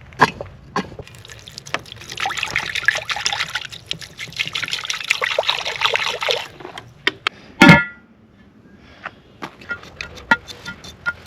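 Liquid pouring into a metal pot for about four seconds, stopping suddenly, then a single loud metallic clang with a short ring.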